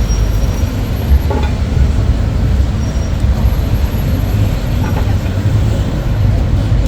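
Road traffic noise: a steady low rumble, with a faint voice briefly at about a second and a half in and again near five seconds.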